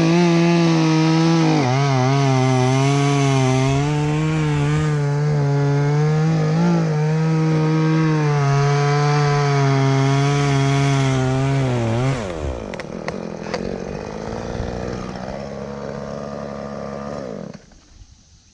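Chainsaw running at full throttle while cutting through ash wood, the pitch sagging under load, then dropping back to idle about twelve seconds in and cutting off near the end.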